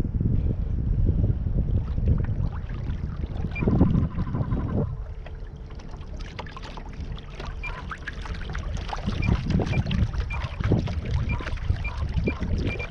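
Kayak on the water: rumbling noise of water and hull movement with scattered small clicks and knocks. A louder burst comes a few seconds in, followed by a faint steady hum for a few seconds.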